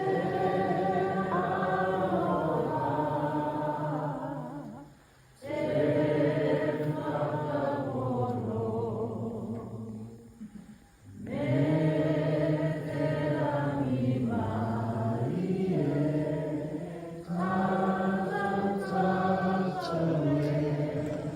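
A group of voices singing unaccompanied in unison, a Māori waiata sung in support of the speaker at a pōwhiri. It comes in long held phrases with short breaks for breath about five and eleven seconds in.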